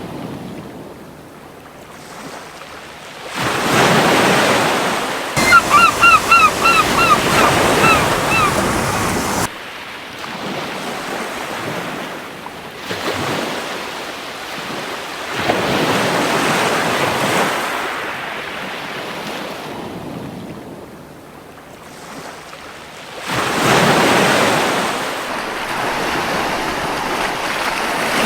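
Surf washing onto a beach: waves break and wash in, swelling and fading every few seconds. About six seconds in, a gull gives a quick run of short, repeated calls lasting two or three seconds.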